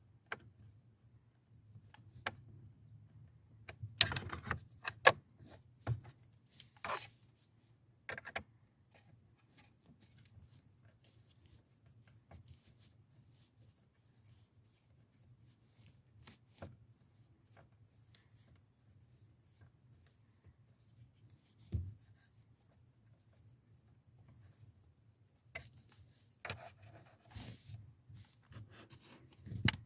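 Sporadic clicks, knocks and rubbing of hands working on parts, with a cluster of sharp clicks about four to five seconds in and a single knock about two-thirds of the way through, over a faint low hum.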